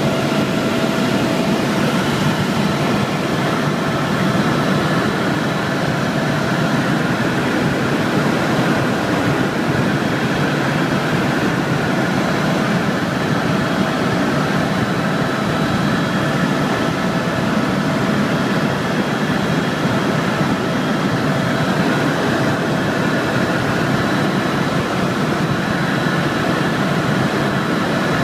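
A helicopter in flight, its engine and rotor noise running steadily with a few faint steady whines on top.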